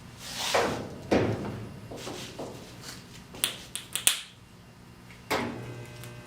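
Stud welder (dent-puller stud gun) welding pull studs onto the hood's sheet metal: three short loud zaps, with a quick run of sharp clicks between them, over a steady electrical hum.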